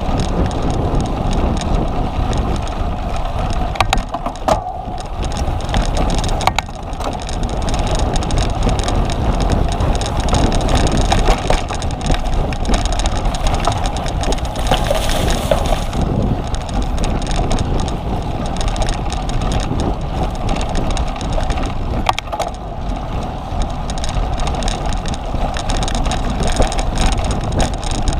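Cyclocross bicycle being ridden hard over rough ground: steady tyre and drivetrain rattle with a heavy low rumble, and a few sharp knocks from bumps early on.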